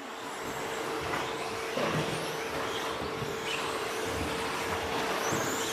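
Off-road RC stadium trucks with 13.5-turn brushless electric motors racing on a dirt track: the motors whine higher and lower as the trucks speed up and slow down, over a steady hum.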